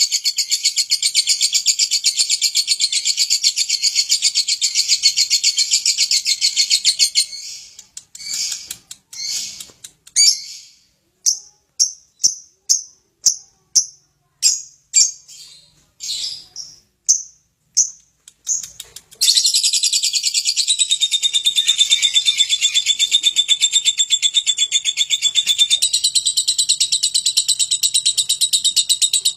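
Lovebird doing its long 'ngekek': a rapid, high-pitched chattering trill that breaks off after several seconds into a string of separate short chirps, about one a second, then starts up again as a continuous trill for the last third.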